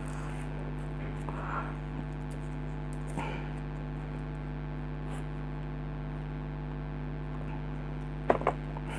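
Steady electrical mains hum, with a few faint clicks from small parts being handled, most clearly a short cluster near the end.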